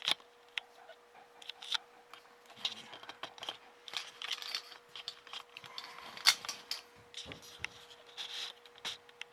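Hands working flat ribbon cables into their connectors on a TV's circuit board: scattered small clicks, taps and rubbing of plastic, with a faint steady hum underneath.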